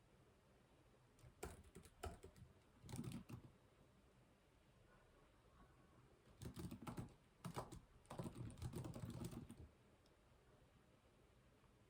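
Faint typing on a computer keyboard in two short bursts of key clicks, the first about a second in and the second about six seconds in, with pauses between.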